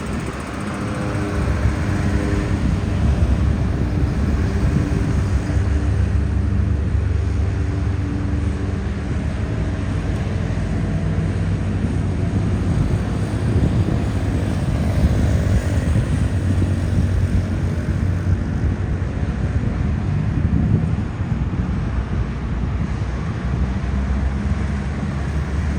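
Propeller-driven Air Force plane droning overhead: a steady low engine hum with several tones, its pitch shifting slowly as it passes.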